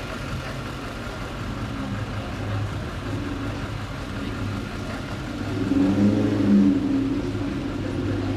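Car engine running, growing louder and higher about six seconds in as it revs, then easing back.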